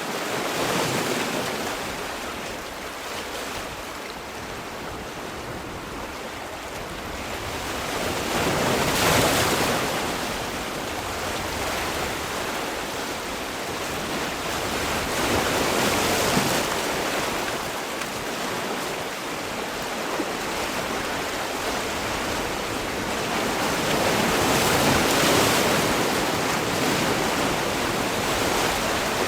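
Sea waves breaking and washing on a shore, swelling and falling back with crests roughly every seven to eight seconds.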